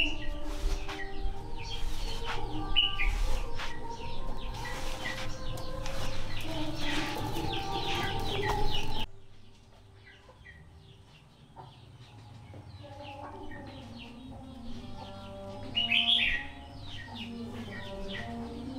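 Birds chirping, with a sudden drop in level about halfway through and a louder burst of calls near the end.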